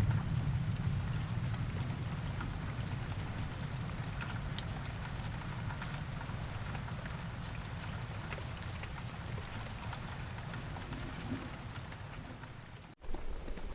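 Steady rain falling, with individual drops ticking, over a low rumble that slowly fades: the tail of thunder. Near the end the sound cuts off abruptly.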